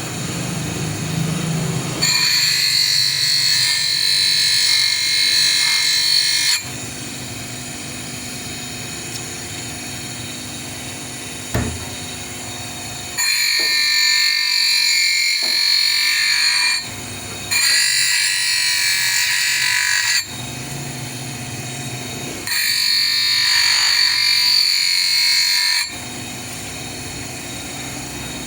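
A power tool running steadily, with four loud, high-pitched spells of about three to four seconds each where it cuts or grinds into the work, and one short click in between.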